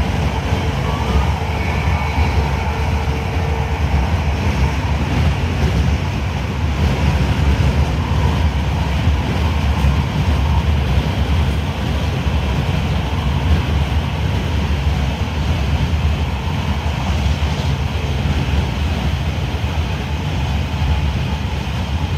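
Class 323 electric multiple unit running at speed, heard from inside the passenger saloon: a steady low rumble of wheels on rail and the coach in motion.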